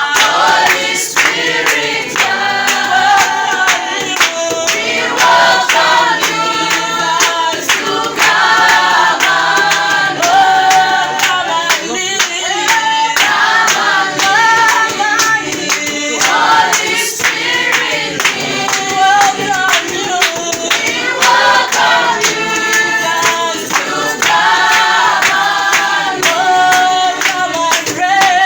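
A group of voices singing a worship song together, with rhythmic hand clapping keeping the beat.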